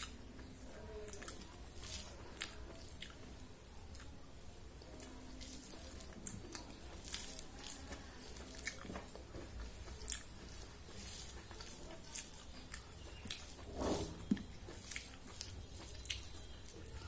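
Close-up eating sounds of a person eating rice and curry by hand: wet chewing with many small, sharp mouth and lip clicks, and soft squishing of rice mixed between the fingers. A brief louder low sound comes near the end.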